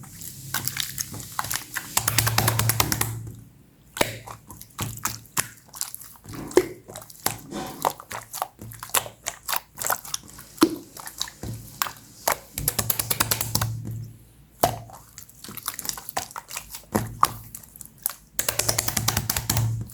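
Clear slime being squeezed and stretched by hand, giving wet, sticky clicking and crackling. Three times it breaks into a quick run of fine crackles.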